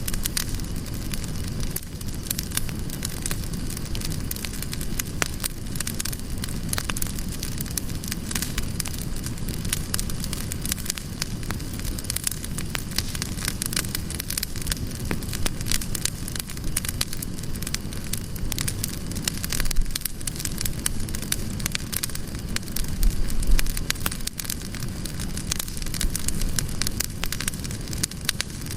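Campfire burning with many irregular sharp crackles and pops over a steady low rumble; a louder burst of low rumble comes about two-thirds of the way through.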